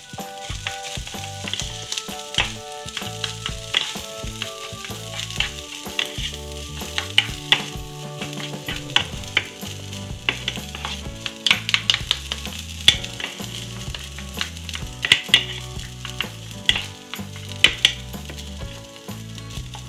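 Fried rice sizzling on a flat electric griddle plate while a wooden spatula and a turner stir and scrape it, with frequent sharp scrapes and taps of the spatulas on the plate.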